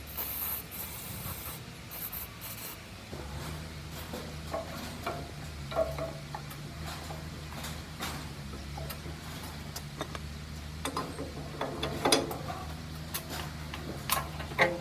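Hand work on metal parts: light scraping and rubbing with scattered clicks and taps, over a steady low hum. A brief hissing scrape comes at the start, and the clicks grow busier near the end.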